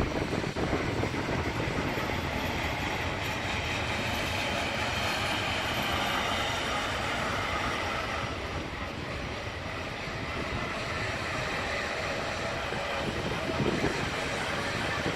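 Freight train rolling past on the main line: a steady, continuous rumble of wagon wheels on the rails.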